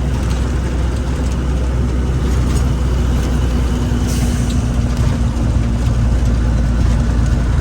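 A truck's engine running steadily while driving, with a deep rumble and road noise and a steady droning tone. A short hiss comes about halfway through.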